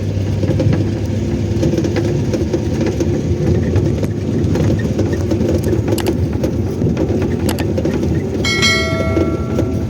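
Steady rumble and rattle of a moving vehicle, with a horn-like held tone sounding near the end for about a second and a half.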